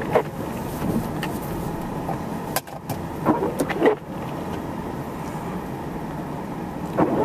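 Steady motor vehicle running noise, with a few short clicks and crackles about half a second in, in the middle, and near the end.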